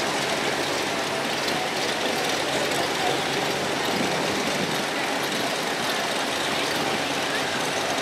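Car engines running slowly, a steady, unbroken noise.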